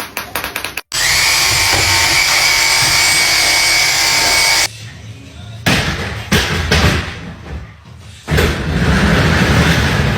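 Power drill running: a steady loud whine for several seconds, then stopping and starting in short runs, then running steadily again near the end. Rapid rhythmic tapping comes just before it.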